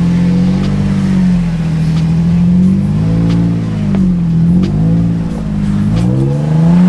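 Off-road 4x4 truck engine revving as it works over rock ledges, its pitch rising and falling several times.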